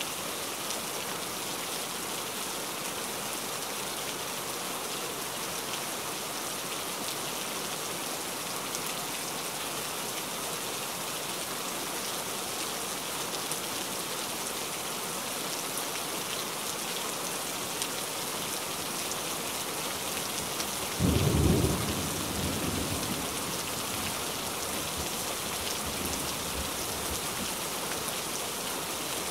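Steady rain falling on foliage and ground. About three-quarters of the way through, a sudden loud clap of thunder, rumbling away over the next few seconds.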